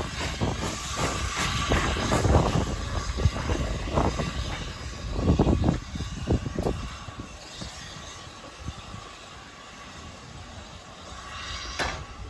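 Steam train running on the line, with a hiss of steam and rumble that fade about halfway through, while wind buffets the microphone with irregular low thumps. A single sharp click comes near the end.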